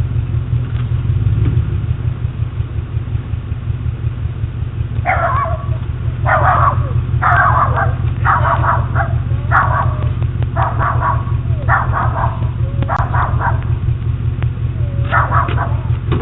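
A dog barking repeatedly, about once a second, from about five seconds in, over a steady low rumble. It is heard through a doorbell camera's narrow-band microphone.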